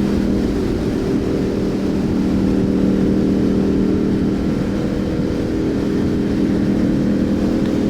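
Small motorcycle engine running at steady revs while cruising, with no rise or fall in pitch, over a low rumble of wind and road noise.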